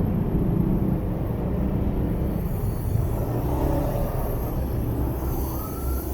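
Motorbike engine running steadily with city road traffic around it while riding, a low rumble throughout. A faint short rising whine comes near the end.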